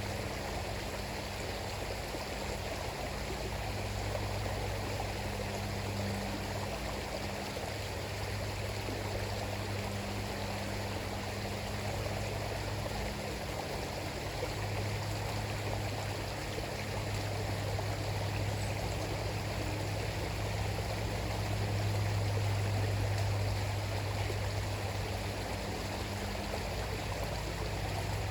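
River water flowing and splashing steadily over its bed, with a steady low hum underneath.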